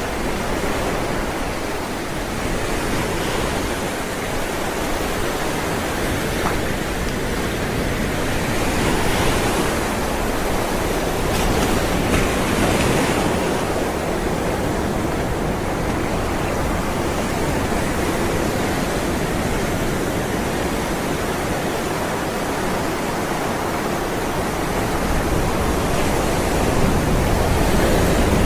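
Ocean waves rolling and breaking on a shore as a continuous wash of surf, swelling brighter a few times, around ten seconds in, a couple of seconds later, and again near the end.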